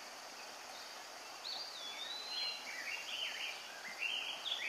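A songbird singing a string of short, warbling phrases that rise and fall, beginning about a second and a half in, over a steady outdoor hiss.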